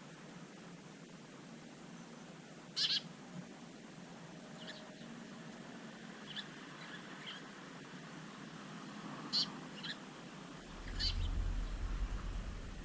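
Wild garden birds giving scattered short, high calls, about seven brief notes, the loudest about three seconds in and another near nine seconds. A low rumble comes in near the end.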